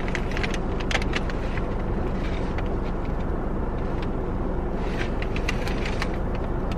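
Steady low hum of a car's running engine heard from inside the cabin, with scattered small clicks and crackles of food handling and eating.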